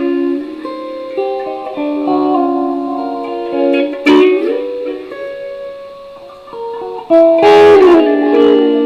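Electric guitar played in single picked notes and short phrases, with a note sliding up about four seconds in and a loud strummed chord about seven seconds in.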